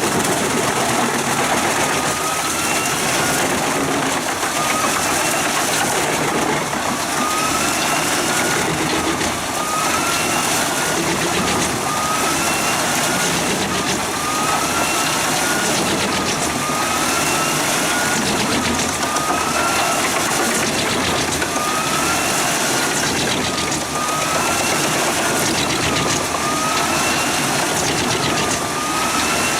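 Wood chipper running steadily: a loud, even rushing noise with a tone that rises and falls about every two seconds.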